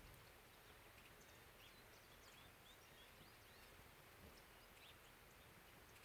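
Faint bird chirps: many short, high calls scattered throughout, over a low steady hiss.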